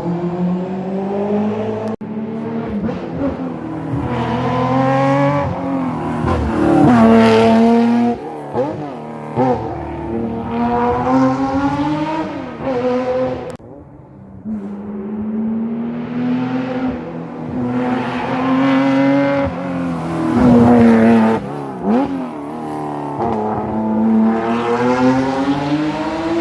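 Rally car engines at full throttle on a stage: an engine climbs in pitch through the gears, drops sharply and picks up again as a car passes close by. About halfway through the sound cuts abruptly and a second car does the same.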